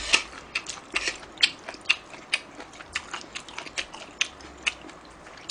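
Close-miked eating sounds: irregular short wet clicks and smacks of chewing ramen noodles, several a second.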